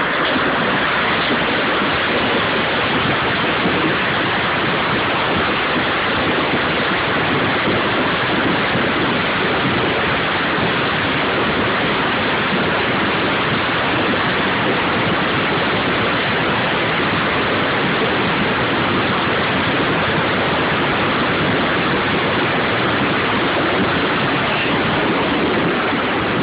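Heavy hailstorm with torrential rain: hailstones the size of golf balls and rain pouring down together in a loud, steady, dense hiss.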